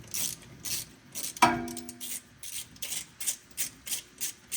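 Ratchet wrench clicking in short repeated strokes, about two to three a second, as a pulley bolt is run in. A single ringing metal clank about one and a half seconds in.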